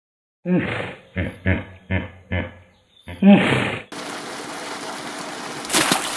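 Hippopotamus calls: one call, then four short grunting honks in quick succession, then a longer call. After these comes a steady rush of running water, with a louder surge near the end.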